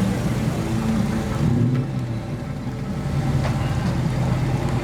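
A car engine running steadily at low revs, a low even hum.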